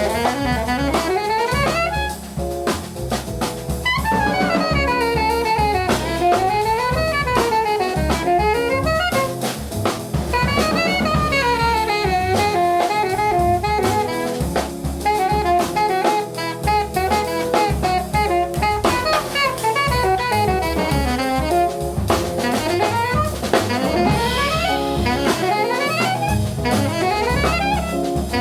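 Small jazz band playing: an alto saxophone solo in fast runs that sweep up and down, over double bass and a drum kit keeping time.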